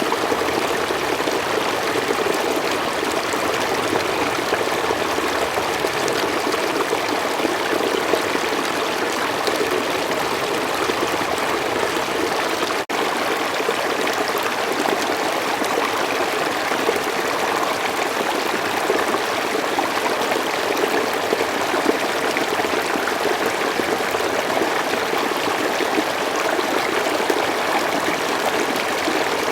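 Slow forest stream flowing, a steady rush of running water. There is a momentary drop-out near the middle.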